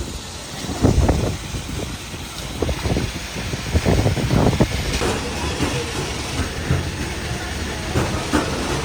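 A vehicle running with a steady rumble, with irregular rattles and thumps, loudest about a second in and again around the middle.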